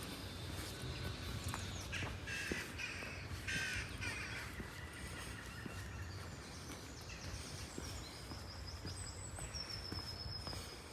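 A bird calling twice with short, harsh calls about two and three and a half seconds in, over a steady low hum of background noise; a few thin, high chirps follow near the end.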